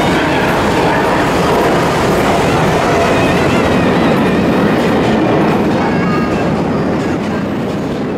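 Odakyu 50000-series VSE express train running past close by on the tracks: a loud, steady rush of wheels on rail that starts to fade near the end. A few faint, thin high-pitched tones ride on it in the middle.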